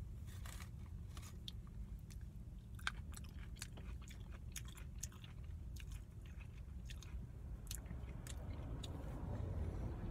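Close-up eating sounds: chewing with many sharp crackles and clicks as a paper-wrapped sandwich is handled, over a steady low hum.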